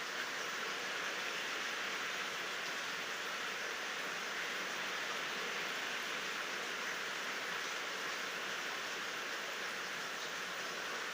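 Steady rain falling, a continuous even hiss with no thunder.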